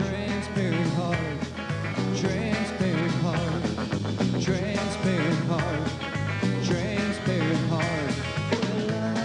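Rock band playing an instrumental passage: an electric lead guitar bending notes over bass and drums.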